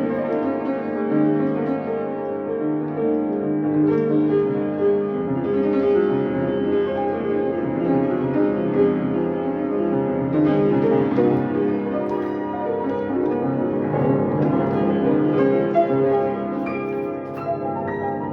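Solo piano improvising slow, sustained chords and melody, many notes overlapping and ringing into each other.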